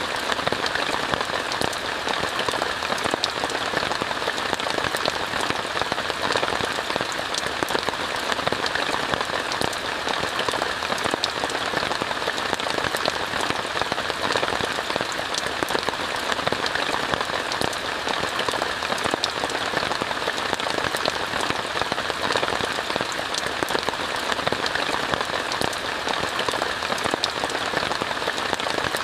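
Steady rain falling, an even hiss dotted with many separate drop taps, unchanging throughout.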